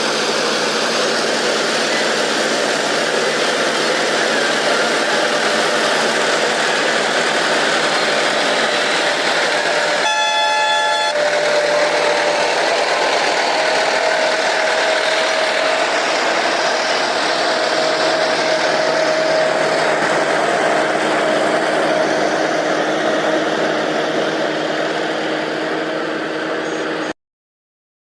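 Combine harvester running steadily while harvesting paddy: a loud, even machine noise with a steady hum. About ten seconds in, a horn sounds for about a second. The sound cuts off suddenly near the end.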